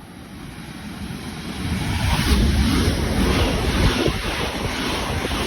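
Passenger train running straight through the station at speed: the rush of wheels on rails and moving air builds over the first two seconds and then stays loud, with wind buffeting the microphone.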